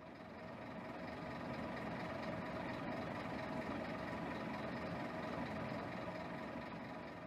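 2008 Scania K270 city bus's diesel engine running steadily, heard from the driver's position; it fades in at the start and begins fading away near the end.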